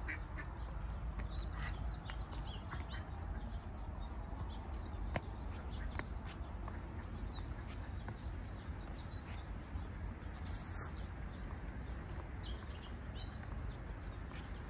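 Small birds chirping: many short falling chirps, two or three a second, over a steady low rumble of background noise. A single click comes about five seconds in.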